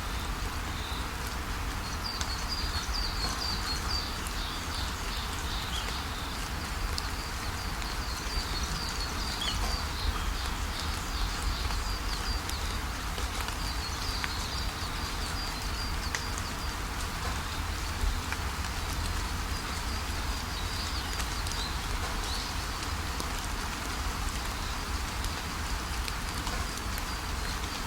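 Steady rain falling on leaves, with small birds chirping in quick high runs of notes over it for most of the stretch.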